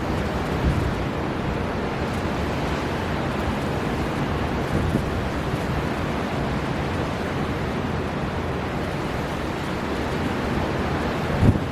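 Storm wind blowing hard and steady over surging sea surf, with a brief low thump near the end.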